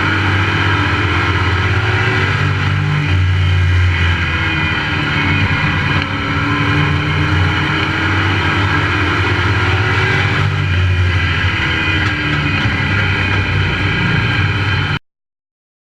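Pro Truck race truck's engine heard from an onboard camera, running loud with the revs rising and falling, then cutting off suddenly near the end.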